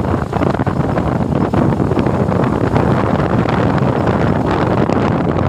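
Wind rushing over the microphone, steady and loud, over the running noise of a moving vehicle.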